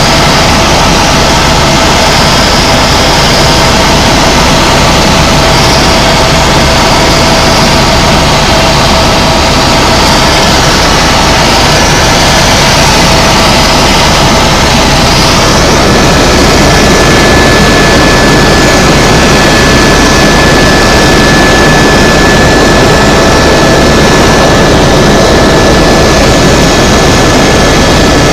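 Tour helicopter in flight: the turbine and rotor make a loud, steady, dense noise with a thin steady whine whose pitch changes about halfway through.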